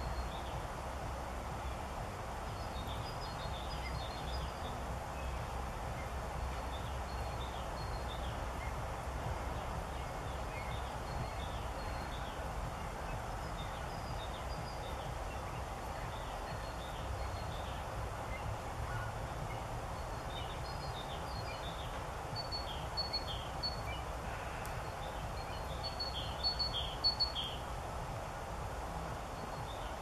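Small birds calling in short, high, falling chirps, scattered through and bunched into louder quick clusters near the end, over a steady low background rumble.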